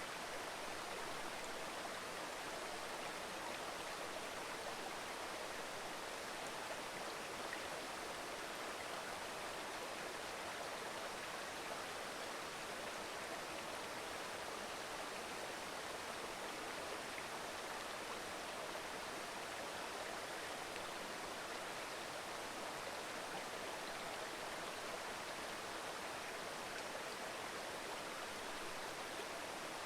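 Steady murmur of a mountain stream, water running over rocks.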